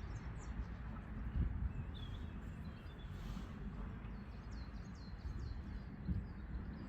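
Small birds chirping in short, high, quick calls, in clusters, over a steady low rumble.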